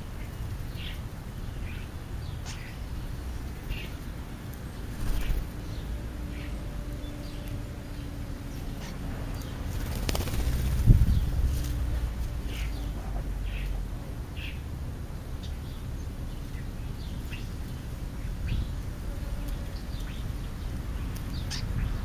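Birds feeding on the ground give short, high chirps scattered throughout, over a low rumble from wind on the microphone. A faint steady hum comes in about six seconds in and swells to a louder moment near the middle before fading.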